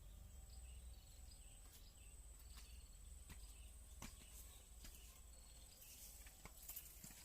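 Faint outdoor ambience of a steady high-pitched insect drone with short repeated chirps over it. Scattered light clicks and rustles come more often toward the end.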